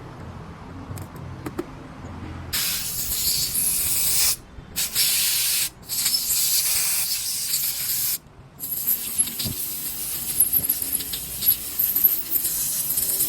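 Hissing spray jet fired in several long bursts of a few seconds each, with short breaks, cleaning out a chainsaw carburettor.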